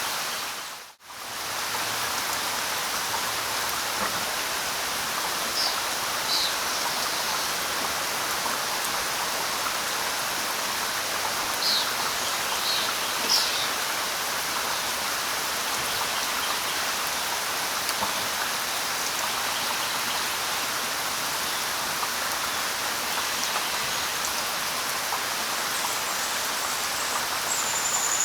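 Steady light rain falling on leaves, with a few short high bird chirps scattered through it and a brief bird call near the end. The rain cuts out for a moment about a second in.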